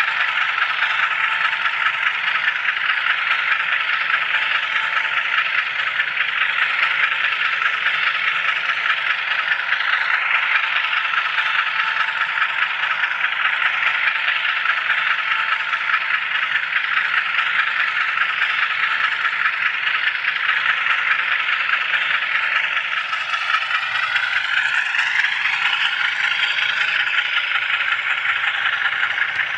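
HO scale model train rolling along the track, heard from the iCar camera car riding on it: a steady rattle of small wheels and running gear on the rails. In the last few seconds a faint whine rises and falls over the rattle.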